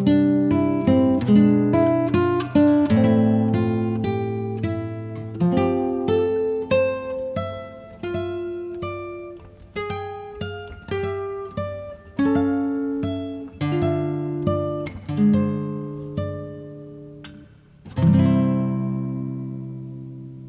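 Solo acoustic guitar music: unhurried picked notes that slow down, then a final chord struck near the end that rings out and fades away.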